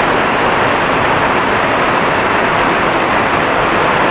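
Heavy tropical rain pouring down steadily, a loud, even hiss of the downpour on the ground and surfaces.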